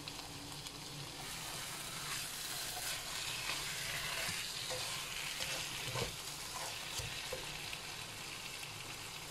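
Fried chicken and masala sizzling in a nonstick kadai while a spatula stirs and scrapes them around, with a few knocks of the spatula against the pan, the loudest about six seconds in.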